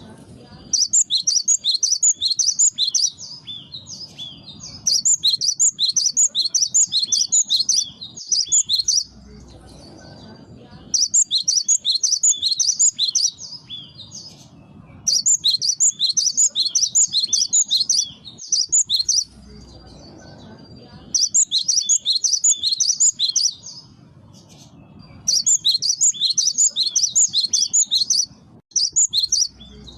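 Gelatik batu (cinereous tit) singing: bursts of rapid, high chattering notes, each phrase lasting two to three seconds and repeated about every four seconds. A faint low rumble fills the gaps between phrases.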